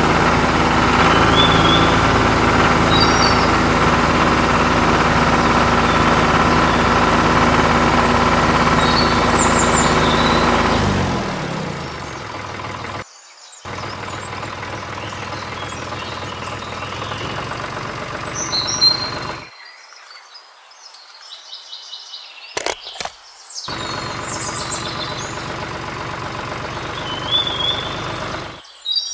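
A small engine running steadily, then slowing and stopping about eleven seconds in, with birds chirping.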